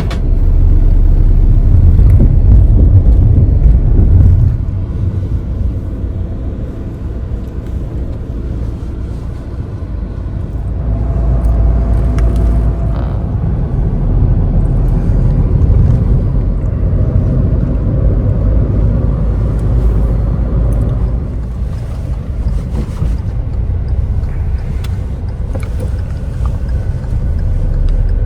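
Car on the move: a steady low rumble of engine and road noise, loudest in the first four seconds, easing, then building again from about eleven seconds.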